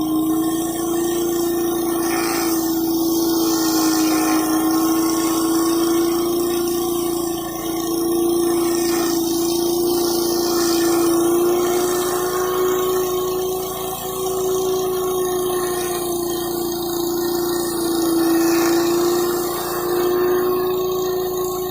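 Gas-engine pressure washer running steadily, with a constant pitched hum, while its high-pressure water jet hisses against concrete, the hiss swelling and dipping as the spray moves.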